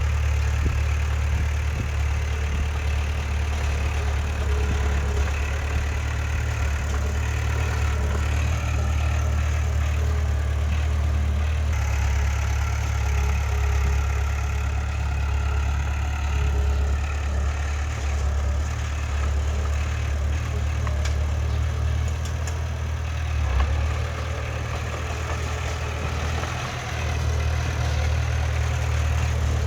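Heavy diesel engine of earthmoving machinery running steadily at low revs, a deep continuous drone with small rises and falls in level.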